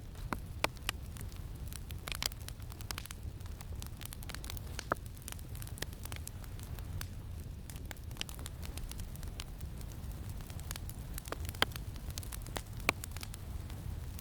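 Campfire crackling with scattered sharp pops and snaps over a steady low rumble of wind.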